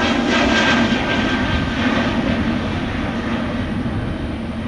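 Jet airliner engines: a loud, steady rushing that slowly fades as the aircraft moves away.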